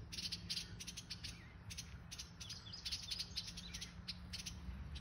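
Adult birds scolding to defend a grounded fledgling: a rapid, irregular run of short harsh calls with a few thin chirps mixed in.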